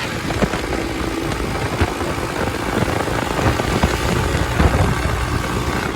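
Hero Xpulse 200 motorcycle with a new aftermarket exhaust running on the move: a steady, rough rushing noise with the engine's low drone underneath.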